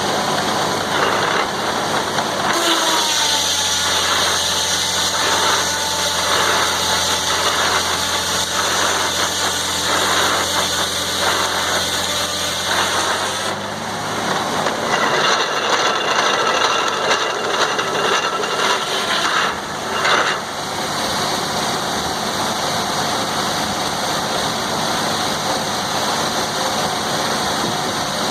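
Sawmill engine running steadily. Its sound changes under load from about two seconds in until about thirteen seconds in, and there is rattling for a few seconds in the middle.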